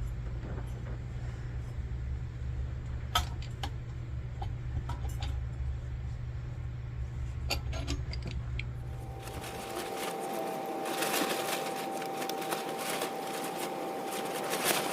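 Scattered sharp metallic clinks and taps of hand work on metal lantern parts, over a low steady hum. About nine seconds in the hum stops and a denser scratchy metal-on-metal rasping with a faint steady whine follows.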